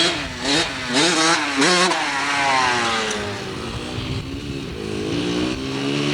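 Dirt bike engine revving up and down several times, then falling in pitch for a second or so before picking up again to a steadier note near the end.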